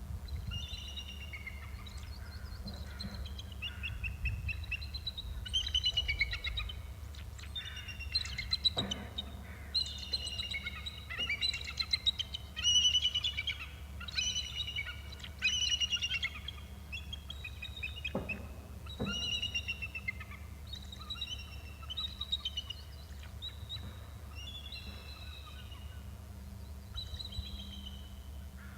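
A pair of birds calling back and forth: series of short, down-slurred whistled notes, overlapping at times, busiest in the middle of the stretch and thinning out toward the end.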